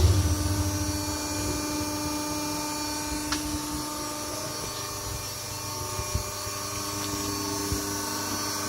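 Colly 350-ton hydraulic straightening press running with a steady hum from its motor and pump. The ringing of a heavy bang fades away in the first second, and a few faint clicks follow.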